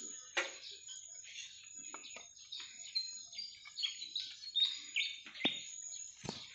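Birds chirping: many short, high chirps, with a quick run of clear notes in the middle, and a few soft knocks from handling about half a second in and near the end.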